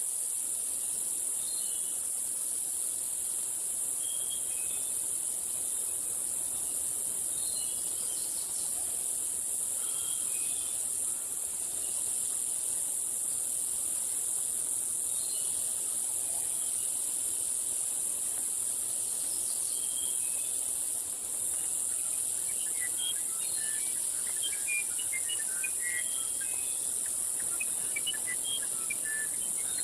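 Rainforest dawn chorus: a steady high-pitched insect drone with short scattered bird calls, which grow busy and overlapping in the last several seconds.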